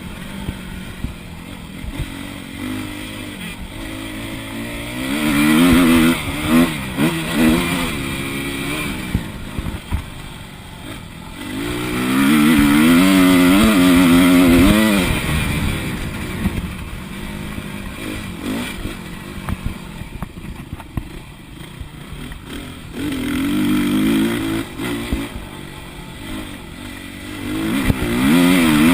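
Motocross bike engine heard from an onboard camera, revving hard and easing off in turn as the rider works the throttle around the track. There are loud full-throttle stretches about five seconds in, around twelve seconds, and near the end, and the bike clatters and knocks over the terrain.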